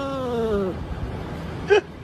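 A cat's long drawn-out meow that falls in pitch and trails off, then a short, loud meow near the end.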